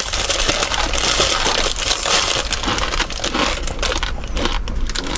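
Close, continuous crinkling and crunching of a plastic packet and dry instant noodles being handled and eaten, with irregular crackly clicks in the second half.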